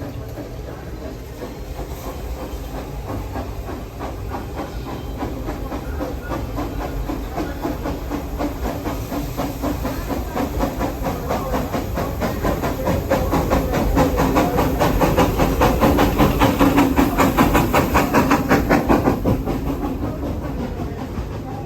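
Steam locomotive engine #504 chuffing with a hiss of steam as it works the train, a quick even run of exhaust beats. The beats grow louder to a peak about three-quarters of the way through, then fall away.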